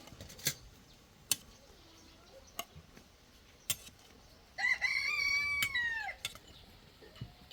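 A rooster crows once, a single call of about a second and a half that drops in pitch at the end. Before it come four sharp clicks or knocks.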